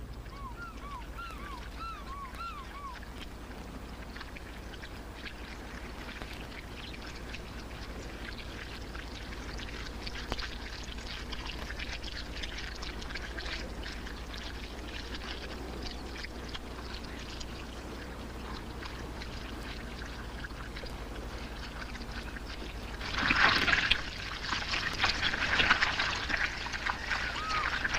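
Giant catfish thrashing and gulping air in a shallow pool of mud: continuous wet splashing and sloshing, with a few short bird chirps at the start and a sudden louder burst of splashing about 23 seconds in that carries on to the end.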